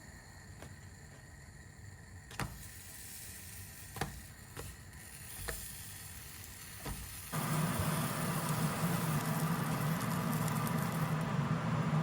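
A few light clicks and knocks of kitchen handling, then an electric kitchen appliance's motor switches on suddenly and runs steadily with a low hum and a whirring hiss.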